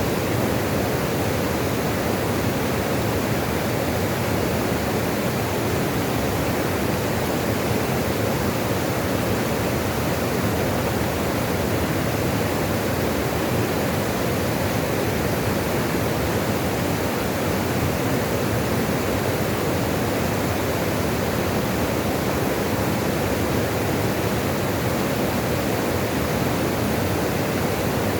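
Running water rushing steadily and evenly, with no change.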